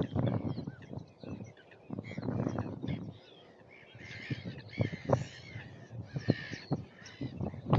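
A flock of gulls calling on a wetland scrape, harsh cawing calls that crowd together from about four seconds in, over low rumbling noise in the first few seconds.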